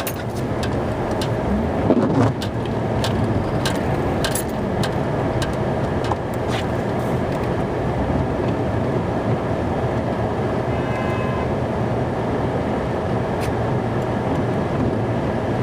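Snow-plow truck driving, its engine and road noise running steadily, with a few sharp clicks and knocks in the first few seconds.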